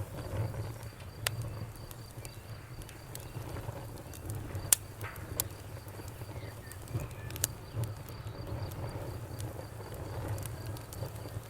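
Wood fire burning in a fireplace: irregular sharp crackles and pops, the loudest a little under five seconds in, over a low steady rumble of the flames.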